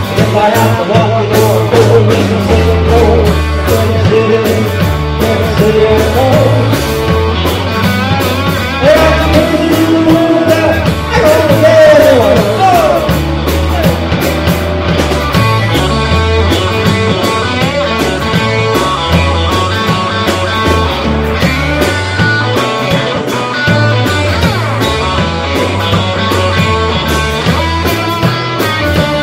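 Live band playing rock and roll, with a steady bass and drum beat under a wavering melodic lead.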